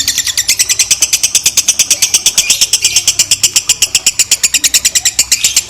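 Lovebird giving a long, unbroken 'ngekek' chatter: a fast, high-pitched rattle of about eleven notes a second. This is the long ngekek of a lovebird in full song.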